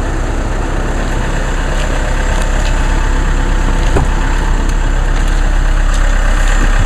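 Diesel car engine idling after a cold start: a steady low rumble that grows slightly louder, with a couple of light knocks.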